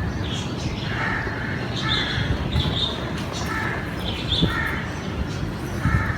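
Crows cawing, a string of short harsh calls about once a second, over a steady low background rumble.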